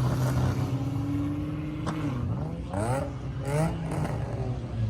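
A car engine accelerating hard, its pitch climbing in two quick sweeps a little over half a second apart as it pulls through the gears, over the steady drone of other engines idling.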